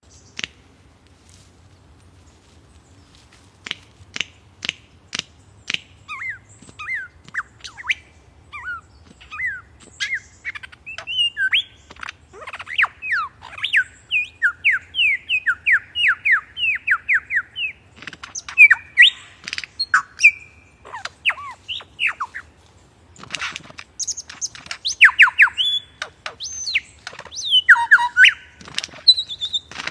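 A bird calling: first a string of short sharp chips, then rapid chirps and quick down-sliding whistled notes, with louder, harsher calls near the end.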